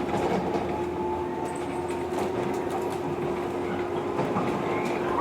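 Interior running noise of a JR 115 series electric multiple unit under way: a steady rumble with a constant tone, and a few faint rail-joint clicks.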